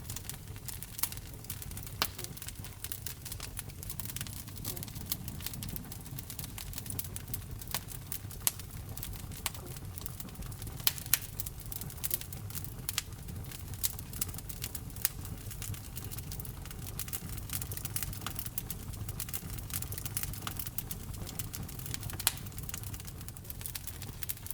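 Wood fire burning in a fireplace: a low steady rumble of the flames with irregular sharp crackles and pops, a few of them louder.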